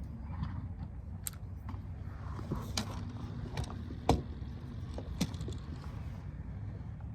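Low rumble of wind on the microphone with a few scattered sharp clicks and knocks, the loudest about four seconds in.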